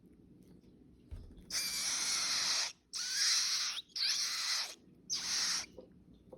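A baby bird giving four harsh, hissing begging calls, each about half a second to a second long.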